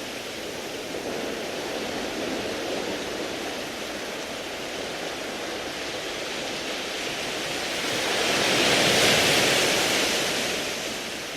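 Sea waves washing over a beach of round pebbles (mongdol), a steady wash with one wave swelling louder and brighter from about eight seconds in, then easing off.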